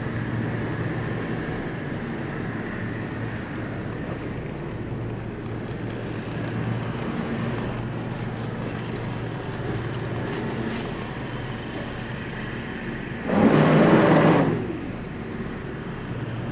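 Steady low hum of a Carver motor yacht's engines running underway at low speed. About thirteen seconds in, a louder sound lasting about a second stands out over it.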